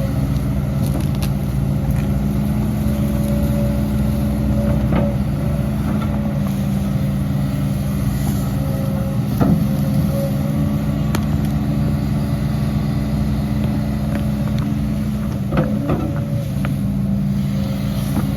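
Diesel engine of heavy earthmoving machinery running steadily, with a few sharp knocks or clanks about five, ten and sixteen seconds in.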